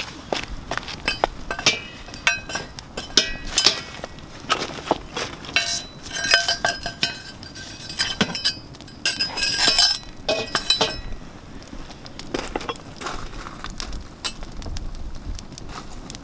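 Campfire crackling: a dense run of sharp snaps and pops, busiest toward the middle, with a few short high-pitched tones among them.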